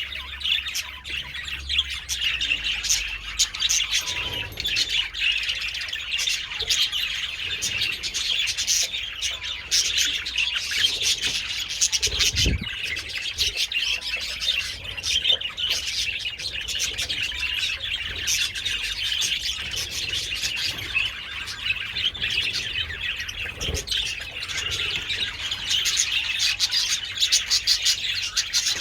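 A colony of budgerigars chattering and chirping all together in a dense, unbroken warble, with a brief dull thud about twelve seconds in.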